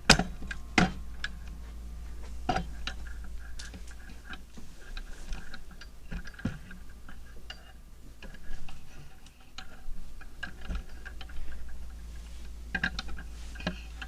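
Irregular sharp clicks and light knocks, with a small cluster near the end, over a steady low hum.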